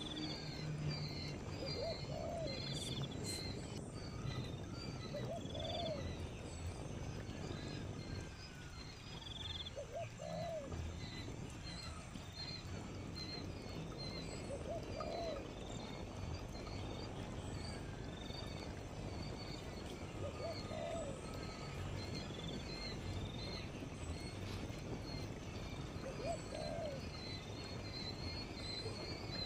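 A bird gives a single low hoot about every five seconds, over a continual high chirping.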